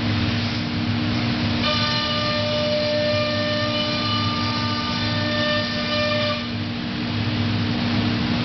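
Biesse Rover B CNC router running with a steady low hum. From about two seconds in, a high whine of several steady tones joins the hum for four to five seconds, then stops.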